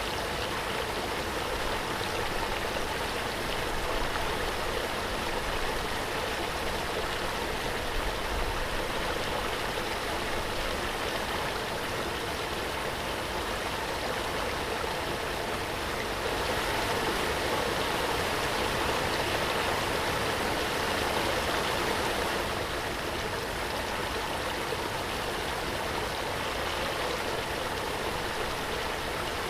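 Waterfall: a steady, dense rush of falling water that swells slightly for a few seconds in the middle.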